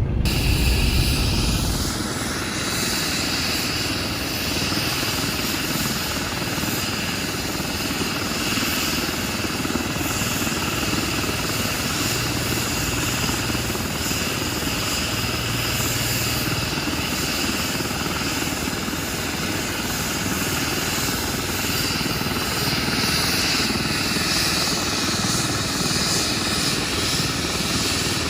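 Air ambulance helicopter running steadily. A heavier low rumble drops away about two seconds in.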